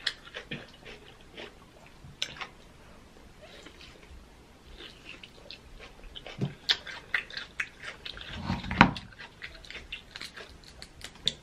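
Close-up eating sounds of king crab in sauce: wet chewing and lip-smacking with scattered small clicks, and one louder brief sound about three-quarters of the way through.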